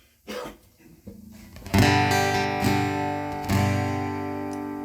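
Acoustic guitar playing a song's intro: a few soft notes, then three chords strummed about a second apart and left ringing.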